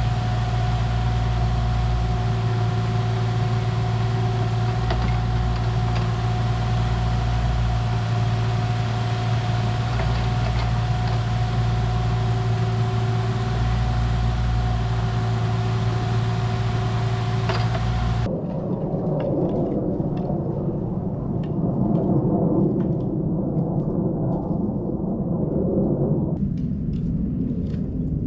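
A vehicle engine running steadily at a constant speed; about eighteen seconds in it cuts off abruptly to a duller, rougher rumbling machine noise.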